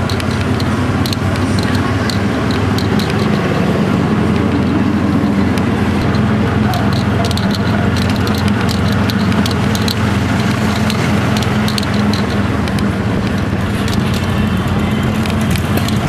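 Moto chiva's motorcycle engine running steadily while underway, with road and wind noise and frequent light clicks and rattles.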